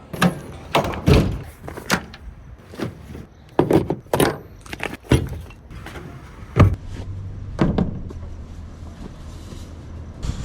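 A string of sharp knocks, clacks and rattles, like diving gear and other items being handled and set down, the loudest about a second in, four seconds in and two-thirds of the way through. A low steady hum comes in about two-thirds of the way through.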